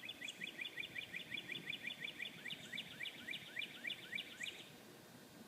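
A songbird singing: a long run of quick, rising chirps, about five a second, which slows in the second half and stops about four and a half seconds in.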